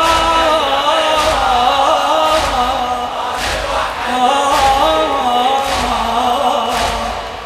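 Men chanting a latmiyya lament melody, with rhythmic chest-beating (latm) thumping about once a second.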